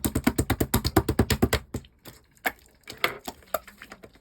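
Slime being squeezed and poked by hand, giving a fast run of sharp clicking pops, about eight a second, that slows after about two seconds to scattered single pops.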